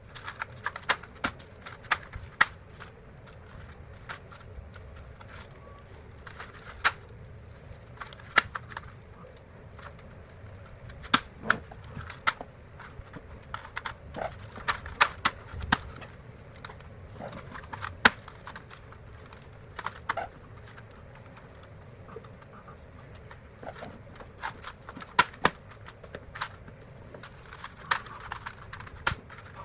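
Irregular sharp clicks and taps of small hard objects, coming in uneven clusters, over a steady low background noise.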